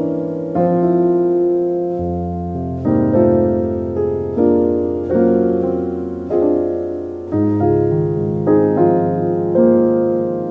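Slow, soft piano music: chords struck about once a second, with each note sustaining and fading over held bass notes.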